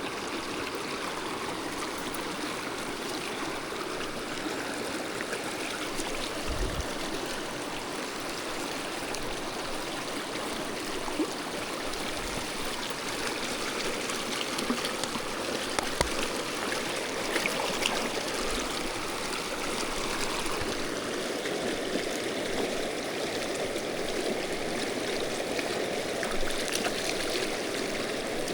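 Mountain stream rushing and gurgling over rocks, steady throughout, with a few faint clicks and low knocks.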